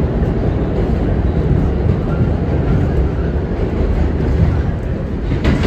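New York City Subway W train running through the tunnel: a steady loud rumble of wheels on the rails, with faint squeaks and a single sharp clack near the end.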